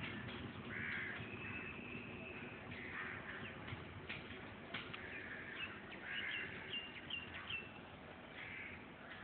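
Crows cawing several times, with a few short high bird chirps in between and scattered faint clicks over a low background rumble.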